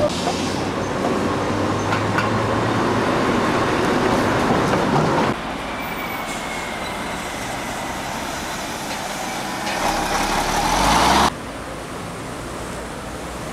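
Train running noise in three short spliced clips: loud running noise that cuts off suddenly about five seconds in, then a quieter stretch that builds up again before another sudden cut, leaving a steady, quieter running sound.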